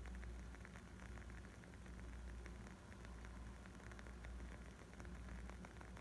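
Wood fire crackling faintly: many small, sharp pops and snaps scattered irregularly over a steady low rumble.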